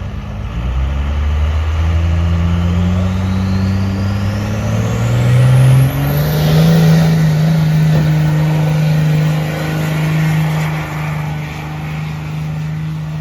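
A pulling vehicle's engine revs up under load, its pitch climbing steadily for about six seconds with a high whine rising alongside. It then holds at high revs.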